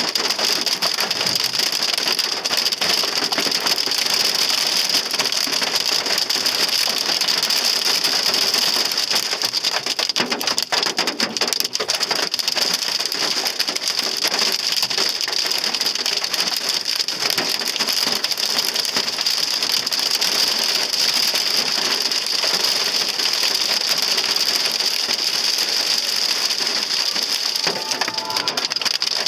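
Hail pelting the roof and windshield of a Hyundai Sonata, heard from inside the car: a loud, dense, unbroken rattle of impacts. The hail is heavy enough to badly dent the car's body.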